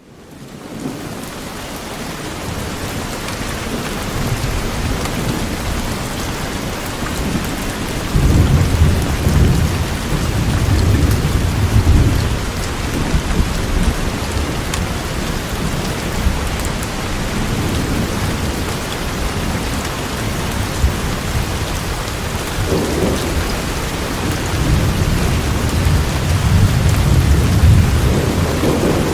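Steady rain falling through trees, fading in at the start. A low rumble swells under it twice, for a few seconds about eight seconds in and again near the end.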